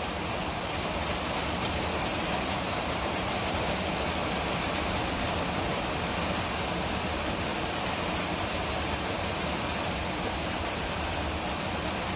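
Heavy rain pouring steadily onto a tin roof, an even, continuous rushing noise with no single impacts standing out.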